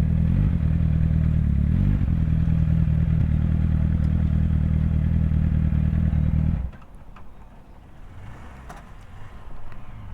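Suzuki GSX-R 750's inline-four engine idling steadily, with a small wobble in pitch near the start. About two-thirds of the way through it is switched off and cuts out abruptly, leaving a few faint clicks and knocks.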